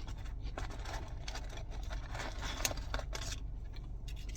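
Handling of food and fast-food packaging while eating: scraping and rustling with small clicks, busiest from about half a second in until near the end, then quieter.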